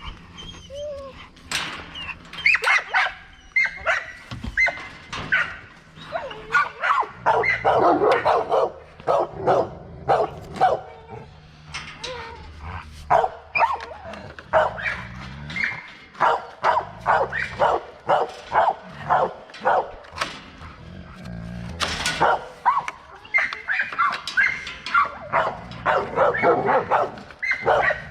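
Dog barking in quick runs of short barks, with brief pauses between the runs.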